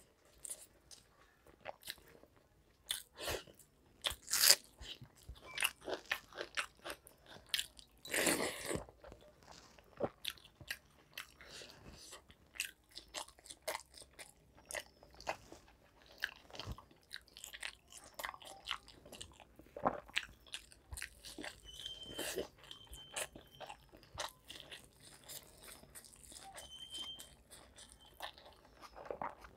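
A person biting, crunching and chewing fried food, in irregular bites with the loudest crunches about four and eight seconds in.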